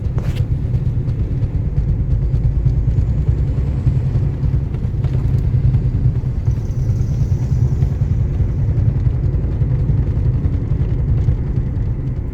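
Audi S3 8L with a DQ250 DSG gearbox on the move, with a loud, steady, low fluttering rumble: a knocking vibration in the drivetrain that the owner says gets faster and stronger with road speed and under load in D, and weaker in N. It persists despite new CV joints, bearings and left gearbox mount.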